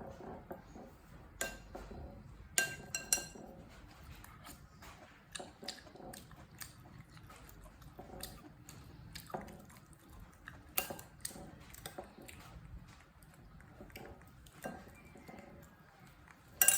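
A spoon clinking and scraping against a bowl of porridge now and then: scattered sharp clinks, some with a short ring, at irregular intervals.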